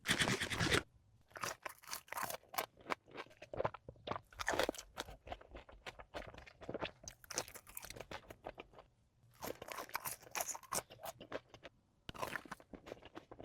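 Close-miked eating of crunchy fried food: bites and chewing crunches come in irregular clusters, with short pauses between. The loudest burst is in the first second.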